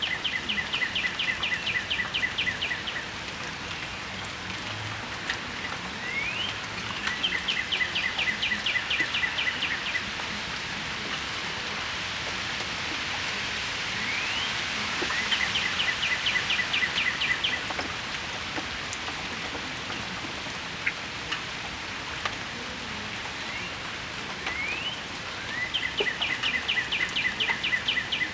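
Steady spring rain falling and dripping onto a patio. A songbird sings through it four times, about eight seconds apart: each song is a quick rising note followed by a fast trill lasting two to three seconds.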